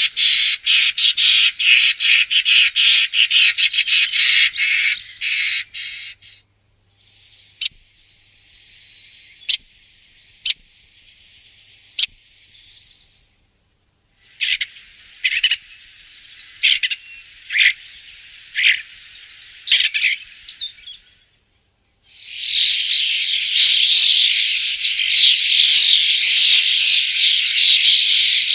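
Common starling song: dense, rapid chattering and clicking, breaking off about six seconds in into a quieter run of scattered clicks and short whistles, then loud dense chattering again for the last quarter.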